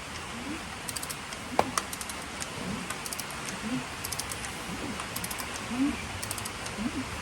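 Ratchet wrench clicking in short runs, about once a second, as the big-block Mopar's crankshaft is turned over by hand for a compression test. Each pull brings a short rising creak.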